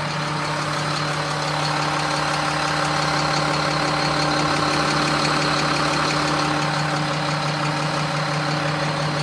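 2007 Sterling L7500 garbage truck's 7.2-litre diesel engine idling steadily and smoothly.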